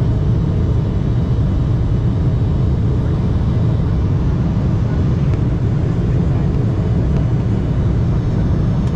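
Steady cabin roar of an Embraer E175 in flight or on its takeoff run, the twin GE CF34-8E turbofans and rushing air heard from a passenger seat, deep and unchanging.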